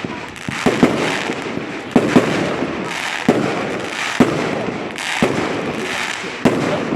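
Fireworks going off in a display: a run of sharp bangs, roughly one a second and sometimes two close together, over a continuous noisy wash between them.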